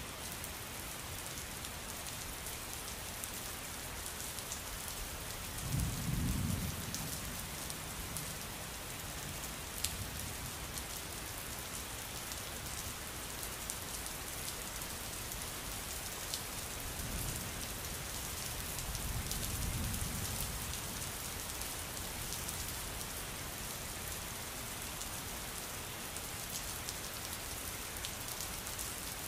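Steady rain falling, with low rumbles of thunder about six seconds in and again around twenty seconds.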